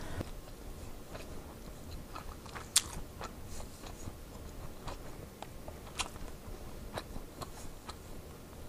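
A person chewing a mouthful of food with the mouth closed, close to the microphone, with scattered sharp wet clicks, the loudest about three seconds in.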